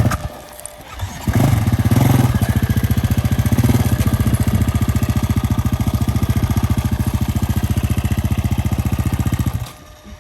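Husqvarna enduro motorcycle engine running close by with a rapid, even firing beat. It cuts out just after the start and catches again about a second later, then runs steadily until it falls away near the end.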